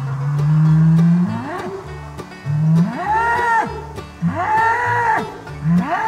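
A bull bellowing over and over: a long low bellow that rises in pitch, then three shorter, higher, arching bellows about a second apart.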